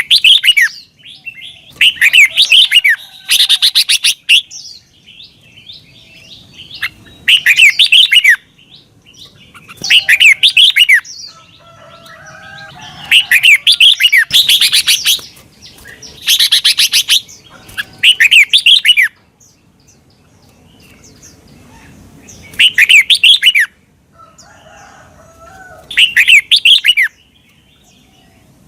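Red-whiskered bulbul singing loud, short phrases of quick rising and falling whistled notes, about ten phrases separated by pauses of one to four seconds, with fainter, lower calls in some of the gaps.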